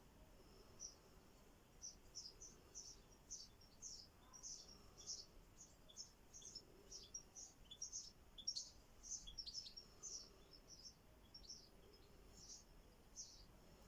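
Faint, high-pitched bird chirps, many short calls coming irregularly and overlapping.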